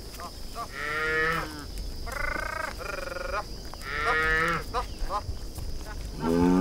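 Herd of cattle mooing: about five separate calls one after another, the loudest near the end.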